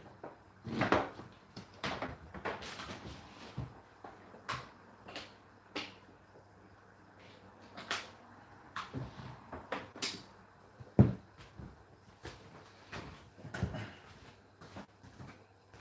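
Whirlpool dishwasher partway through its wash cycle: irregular knocks and splashes from inside the tub over a faint steady low hum, with the sharpest knock about 11 seconds in.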